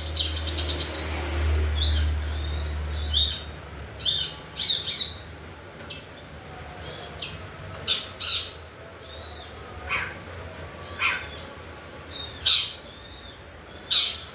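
Long-tailed shrike (pentet) calling: many short, high, arched chirps in irregular runs, a few near-continuous at first, then spaced about a second apart. A low steady hum underlies the first few seconds.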